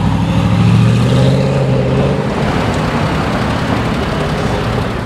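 A car engine running at low revs as a car drives off in city traffic. The engine note holds steady for the first two seconds or so, then gives way to general traffic noise.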